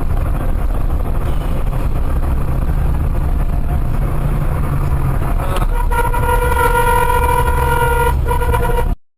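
Loud low road rumble of a vehicle driving, with a vehicle horn blaring steadily over it for the last few seconds, briefly interrupted once, before the sound cuts off abruptly.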